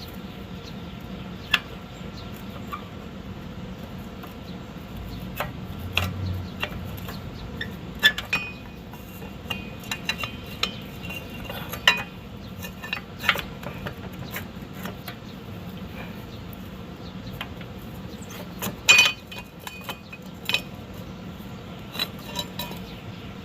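Metal parts and hand tools clinking and tapping during work on a truck's rear axle: scattered sharp clicks a second or two apart, with a quick cluster of knocks about nineteen seconds in, over a low steady hum.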